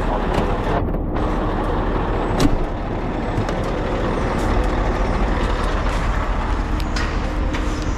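Lorry engine running steadily, with a few light clicks over it.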